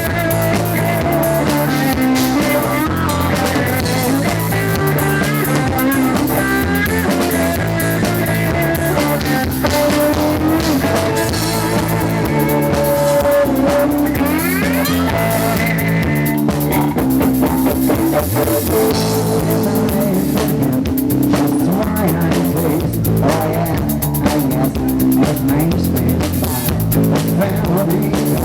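Live rock band playing an instrumental passage with no singing: guitar lines, some bending in pitch, over bass and a drum kit.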